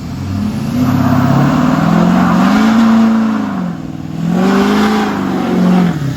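A vehicle engine revved hard twice, its pitch climbing and falling back each time.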